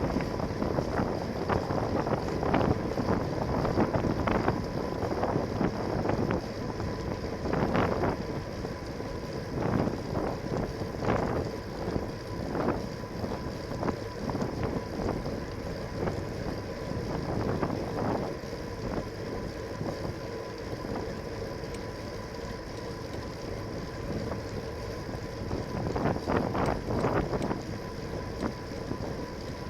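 Wind buffeting a bicycle-mounted camera's microphone while riding, with repeated gusts over a steady rush of noise and a faint steady high tone underneath.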